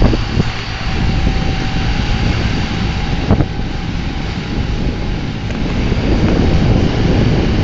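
Steady motor drone with heavy wind rumble buffeting the microphone.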